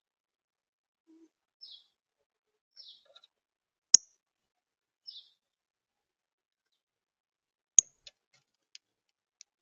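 Small birds giving a few short, high chirps, spaced out, with two sharp clicks, one about four seconds in and one near the end, louder than the chirps, followed by a few fainter ticks.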